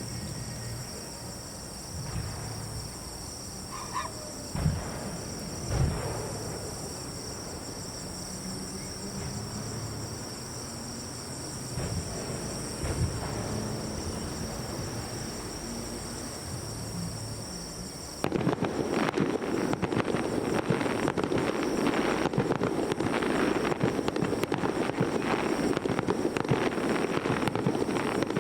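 Insects chirping steadily in the night air over a low murmur, with two low booms of fireworks bursts about five and six seconds in. About two-thirds of the way through, the sound switches suddenly to loud, dense, continuous crackling of fireworks.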